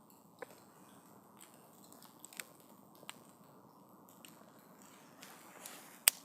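Wood campfire crackling over a soft steady hiss of flame, with a few sharp pops from the burning wood, the loudest one near the end.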